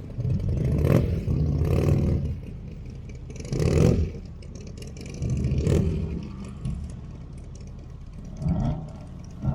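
A car engine revving in several short bursts over a low rumble.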